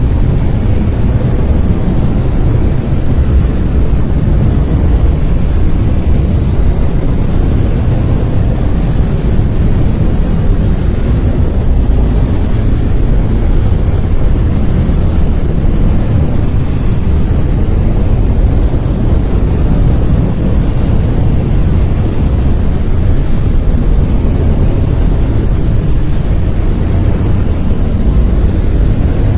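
Steady brown noise: a deep, even rumbling hiss, loudest in the bass and thinning toward the treble, with no changes.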